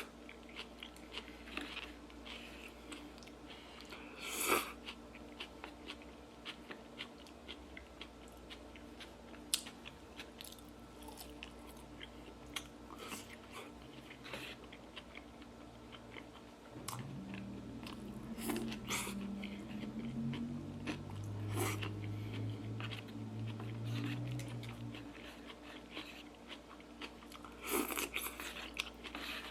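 Close-up mukbang eating sounds: chewing and biting with many small wet mouth clicks. A low, wavering hum-like tone rises in for several seconds past the middle of the stretch.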